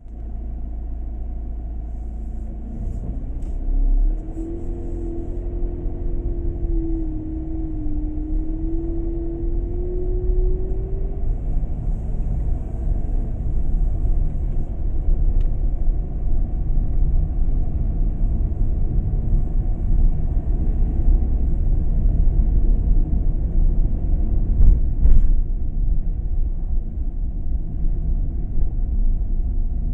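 A road vehicle driving: a steady low rumble of engine and road noise. From about 4 to 11 seconds an engine tone rises and wavers as it picks up speed. A couple of short knocks come near the end.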